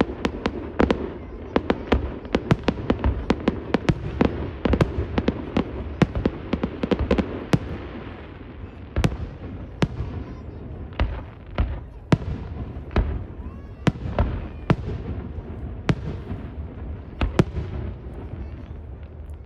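Fireworks display: shells bursting in a rapid, dense volley of bangs that thins out after about eight seconds into separate bangs, dying down near the end.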